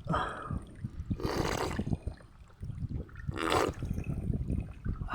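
Water of a small waterfall trickling and splashing, with three short, louder splashy bursts over a steady low rumble.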